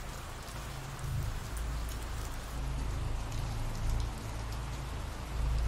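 Steady ambient rainfall: an even hiss of rain with faint scattered drop ticks and a low rumble underneath.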